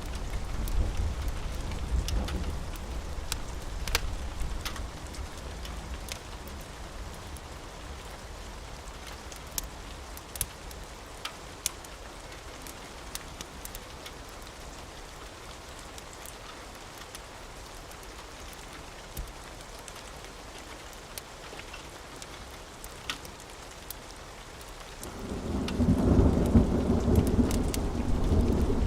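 Steady rain with scattered sharp ticks, and rolling thunder: a rumble dies away over the first few seconds, then a louder peal of thunder rolls in near the end.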